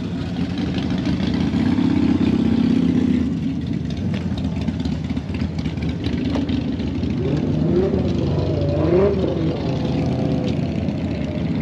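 A car engine running nearby, a steady hum whose pitch rises and falls a few times around eight to nine seconds in.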